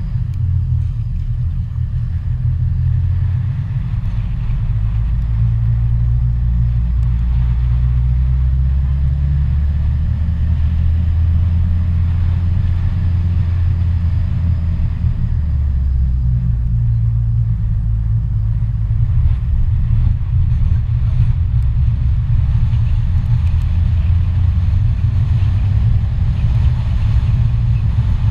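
Car driving along a road: a steady low engine and road rumble whose pitch steps up and down a few times.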